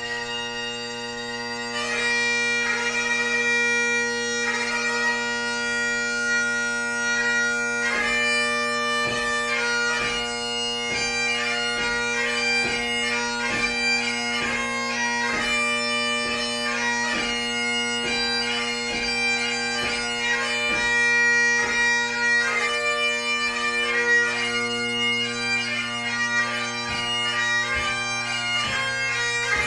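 A solo Great Highland bagpipe playing light music: the drones hold a steady tone under a fast chanter melody. From about eight seconds in, the notes come in a quick, even rhythm.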